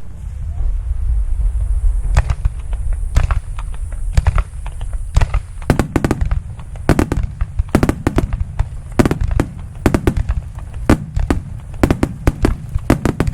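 Aerial fireworks bursting in a rapid barrage: many sharp bangs and crackles in quick succession over a continuous low rumble.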